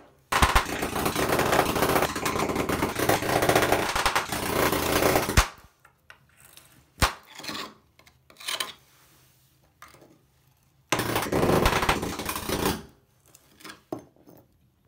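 Rapid hammer taps on a nail set chipping ceramic tile off a shower curb, in two long rattling runs separated by a few single knocks.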